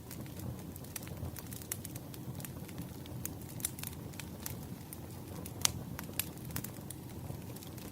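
Wood fire crackling: a steady low rumble of burning logs with irregular sharp pops and snaps, one louder pop a little past the middle.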